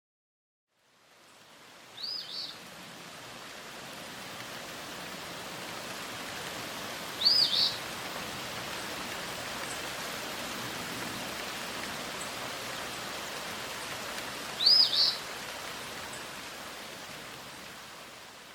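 Steady outdoor ambient hiss that fades in after about a second and fades out near the end. A bird gives a short, high, arched double chirp three times, several seconds apart.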